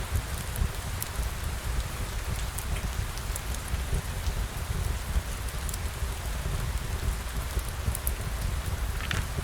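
Steady rain falling, with a low rumble underneath and scattered sharp ticks of drops.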